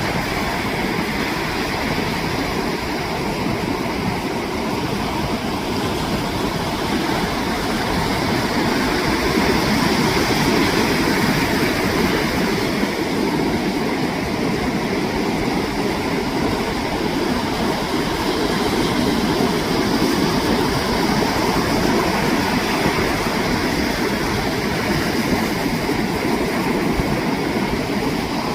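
Ocean surf breaking on a beach: a continuous rushing wash of waves that swells and eases slowly.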